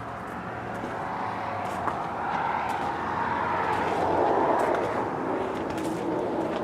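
Steady engine noise that swells over the first four seconds or so and then eases off.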